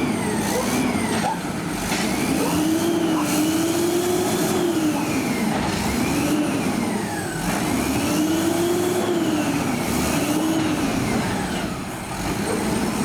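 Diesel engine of a Peterbilt 320 garbage truck with an Amrep Octo body, revving up and falling back several times in long rises and falls.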